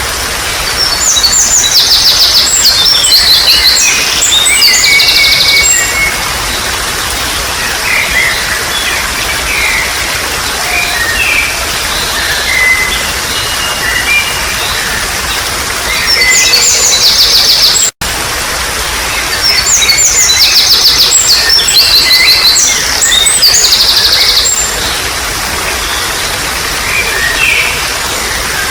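Steady trickling water under a songbird singing loud phrases of fast, high trills and chirps, which come in bursts several seconds long. The sound cuts out for an instant about two-thirds of the way through.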